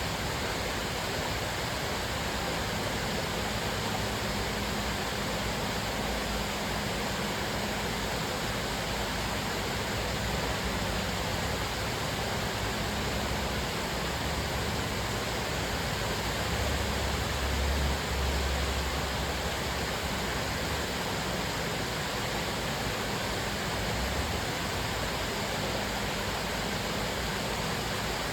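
Cascading waterfall: a steady rush of falling water. A low rumble swells briefly about two-thirds of the way through.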